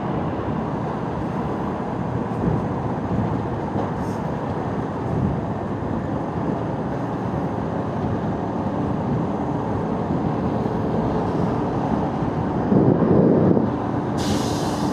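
Motorcycle riding on a rough, potholed road: a steady mix of engine, wind and road noise, with a louder swell about thirteen seconds in and a short hiss near the end.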